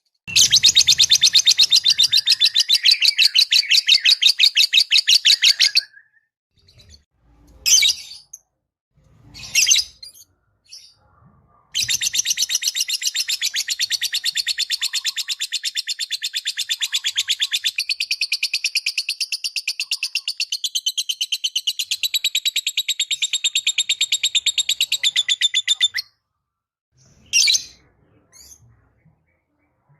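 Lovebird chattering in long, rapid trills of evenly repeated high notes. One trill lasts about six seconds, then come two short calls, then a longer trill of about fourteen seconds, then a few short calls near the end.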